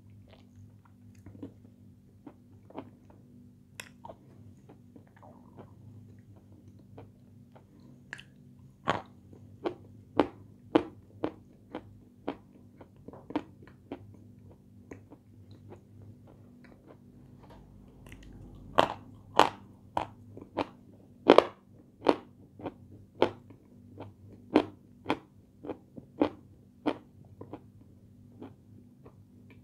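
A person chewing crunchy food close to the microphone: sharp crunches and mouth clicks, sparse at first, then coming about once or twice a second and louder from about a third of the way in. A low steady hum lies underneath.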